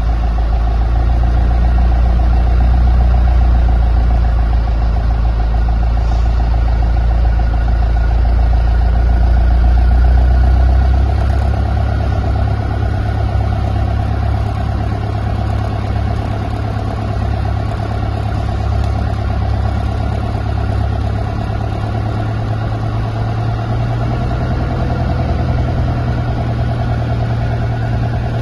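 An engine running steadily. About eleven seconds in its deep low hum drops away and it carries on a little quieter.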